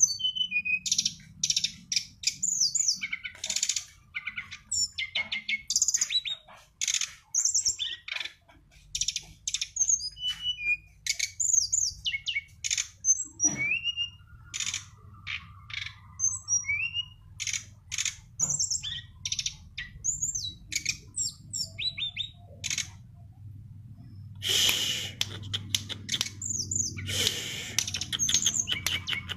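A caged songbird, a brown-chested jungle flycatcher, singing in quick high-pitched phrases of chirps, trills and whistles separated by short pauses, over a steady low hum. Near the end come two louder, hissier stretches of song.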